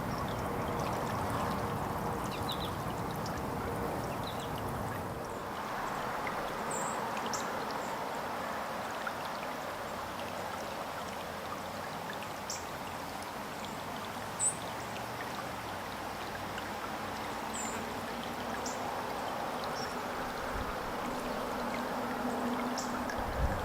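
Steady trickle of running water, with short, high chirps from small birds, sparrows and juncos, scattered through it.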